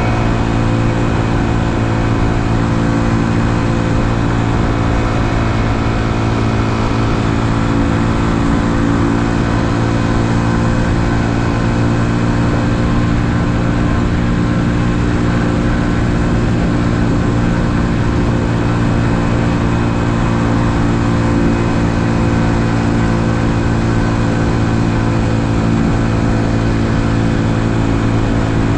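2020 Honda Super Cub's 125 cc single-cylinder four-stroke engine running at a steady cruise, its note holding even throughout.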